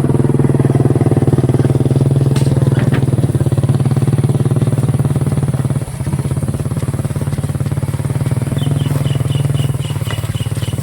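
A small engine running steadily at an even speed, with a short run of quick high ticks near the end.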